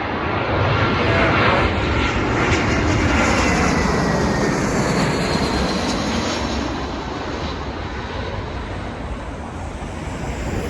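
British Airways jet airliner on landing approach, passing low overhead. Its engine noise is a loud, even rush that peaks about one to four seconds in and then slowly eases off, with faint falling whines running through it.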